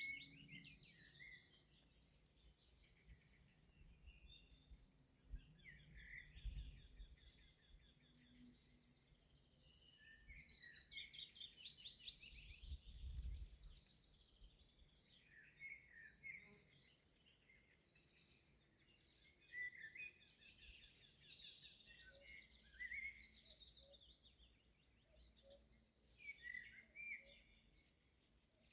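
Faint spring songbird chorus: several birds singing in short, overlapping phrases of high trills and chirps, with a few brief low rumbles in between.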